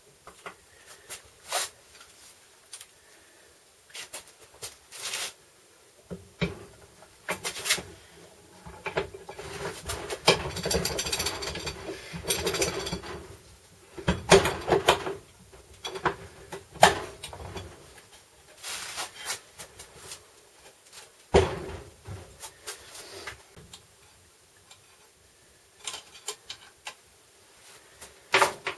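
Hand work on metal parts and tools: scattered knocks and clicks, with a few seconds of rasping, rubbing noise about ten seconds in and a shorter burst a little later.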